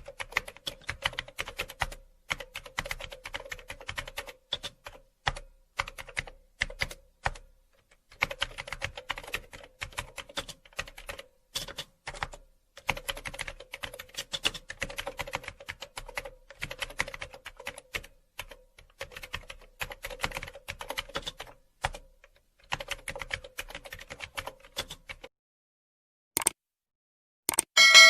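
Rapid typing: bursts of key clicks with short pauses between them. Near the end come two separate clacks, and a ringing bell ding starts at the very end.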